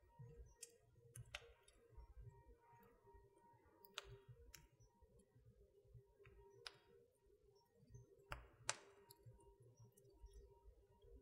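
Wood fire crackling in a fireplace: irregular sharp pops and snaps, the loudest a pair about two-thirds through, over a faint low rumble and a faint steady hum.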